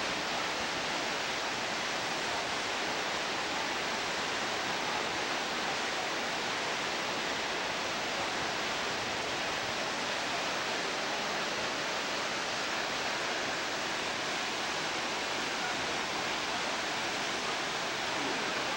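Steady, unbroken rush of water, like a waterfall or cascading stream, holding an even level with no surges or breaks.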